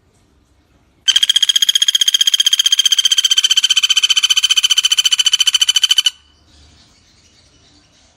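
Pelatuk bawang woodpecker calling: one long, rapid, even rattle of about ten notes a second, starting about a second in and cutting off after about five seconds.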